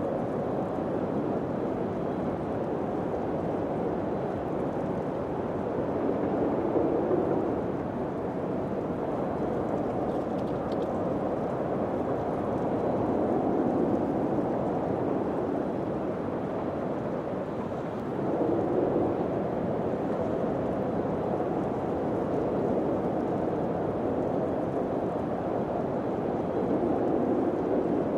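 Low, steady wind rushing, swelling and easing in gusts every several seconds.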